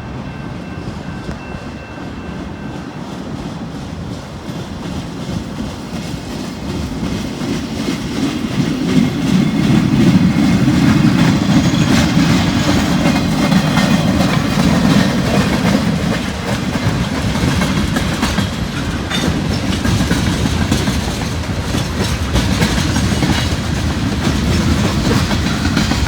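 A CSX local freight train rolling past, led by its caboose. A low rumble builds as it nears and is loudest about ten seconds in, then the wheels click and clack over the rail joints.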